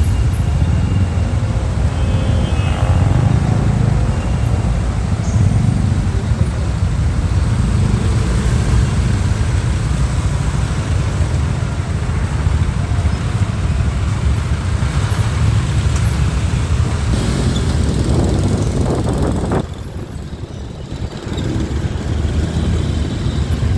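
Onboard sound of a motorcycle riding in rush-hour traffic: a steady low rumble of engine and road noise, dropping in level for about two seconds near the end before picking up again.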